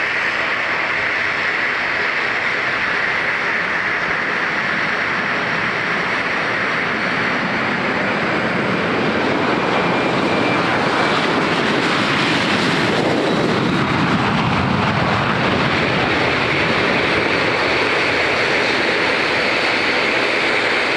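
Boeing 737 jet engines at takeoff thrust during the takeoff run, a steady roar that grows louder, with a sweeping change in tone about halfway through as the airliner passes.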